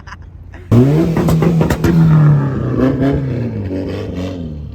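A car engine revving. It cuts in suddenly and loud about a second in, rises and holds high, then eases off. A shorter blip of the throttle comes near the end.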